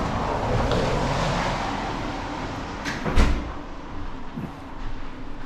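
A door or window sliding open onto steady outdoor noise, which swells at first and then slowly fades, with one sharp knock about three seconds in.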